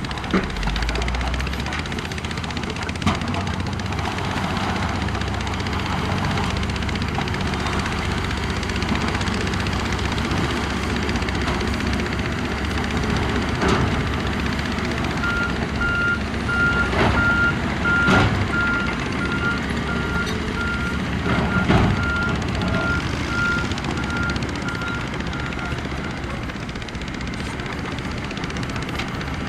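Diesel earthmoving machinery running under load, with a reversing alarm beeping steadily for about ten seconds from around the middle. A few sharp clanks sound over the engine noise.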